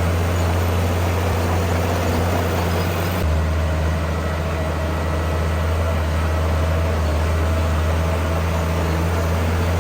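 Heavy diesel engine of earthmoving machinery running steadily, a deep hum that shifts abruptly in character about three seconds in.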